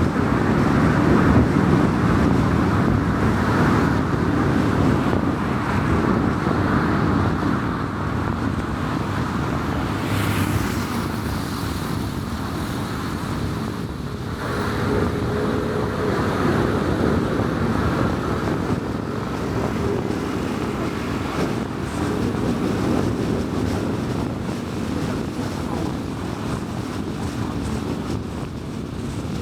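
Steady tyre and wind noise of a car driving at speed on a highway, with a brief hiss about ten seconds in.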